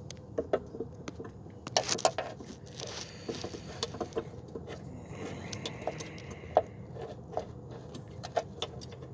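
Scattered light metallic clicks, taps and small rattles, at irregular intervals, from hand tools and a metal hose clamp being worked onto a rubber boot.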